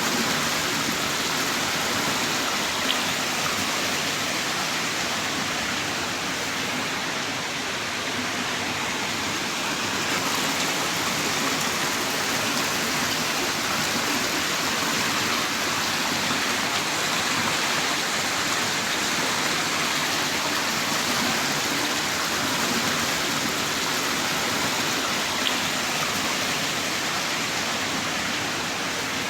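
Heavy rain downpour: a steady, dense hiss of rainfall with no breaks, and a faint tick or two of single drops.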